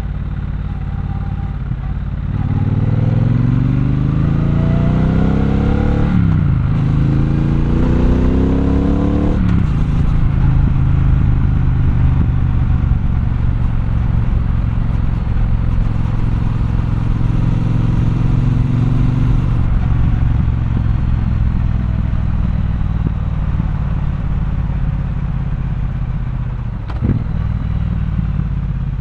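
Triumph Bonneville Bobber's 1200 cc parallel-twin engine accelerating hard through the gears. Its pitch rises, drops at an upshift about six seconds in, and rises again to a second shift near ten seconds. After that it runs at a steady cruise, with a brief sharp click near the end.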